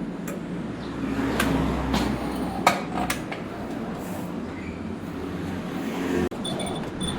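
Workshop noise: a steady low hum with a few sharp knocks and clinks between about one and a half and three seconds in, the loudest near the middle, then a sudden brief break.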